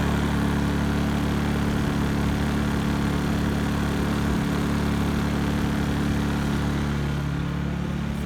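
Honda EU2000i inverter generator, a small single-cylinder four-stroke, running steadily while carrying the house load through the transfer panel.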